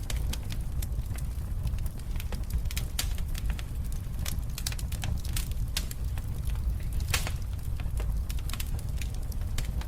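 Wood fire burning in a fireplace: a steady low rumble of flames with irregular sharp crackles and pops, one louder pop about seven seconds in.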